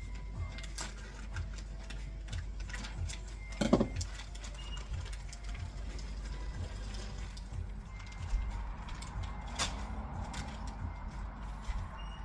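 Kitchen handling noise while cooking: scattered light clicks and knocks over a steady low hum, with one sharper knock near the end.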